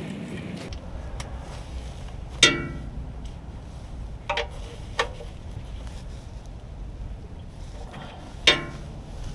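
Four sharp knocks, each with a brief ring, over a steady low background rumble. The loudest come about two and a half seconds in and near the end, with two lighter ones in between.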